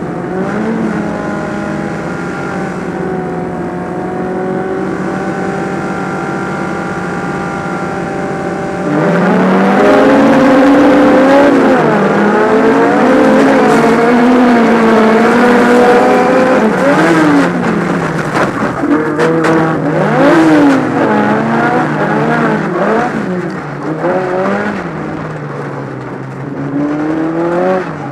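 A Volkswagen Beetle race car's air-cooled flat-four engine, heard from inside the cabin. It runs at steady revs, then about nine seconds in goes hard on the throttle, and its pitch climbs and drops again and again through gear changes and lifts.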